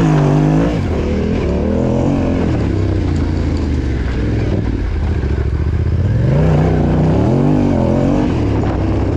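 Yamaha Ténéré 700's parallel-twin engine revving up and down under throttle as the motorcycle is ridden slowly off-road, the revs rising again about six seconds in.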